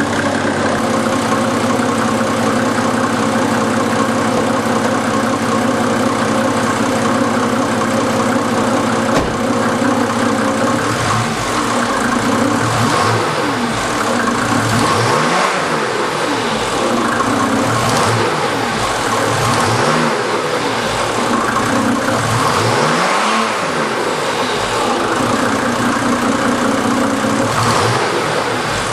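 Mercedes OM603 3.5-litre turbodiesel inline-six running steadily while warming up after a cold start.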